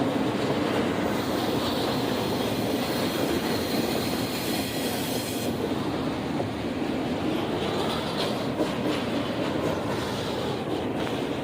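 A train rolling past: a steady rumble of wheels on rail, with a high hiss that cuts off abruptly about halfway through and some faint clicking later on.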